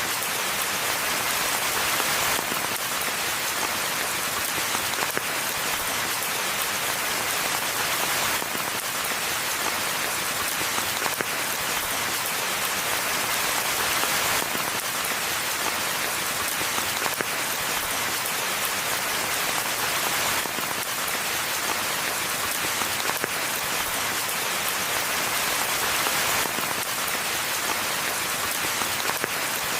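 Steady rainfall in a forest: a dense, even hiss of many drops landing, with no letup.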